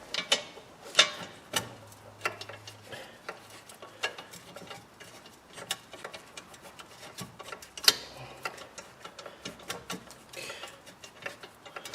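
Irregular light metallic clicks and taps of hand work at the wheel hub, as the wheel bearing's mounting bolts are fed through and threaded in by hand.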